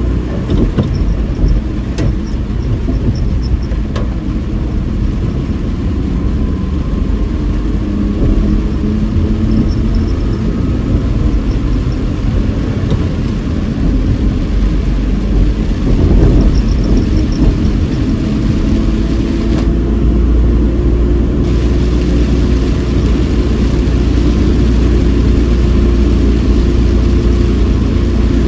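Cabin noise of a car driving in heavy rain: a steady, loud rumble of engine and tyres on a wet road, swelling briefly a little over halfway through.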